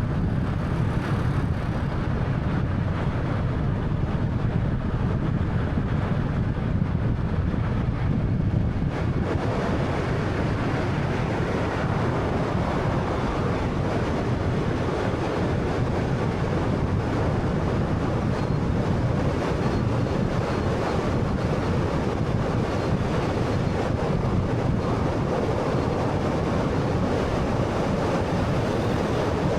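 Steady road and tyre noise from a 2013 Honda Fit driving along a highway, with no distinct engine note. About nine seconds in, the noise grows fuller and brighter and stays that way.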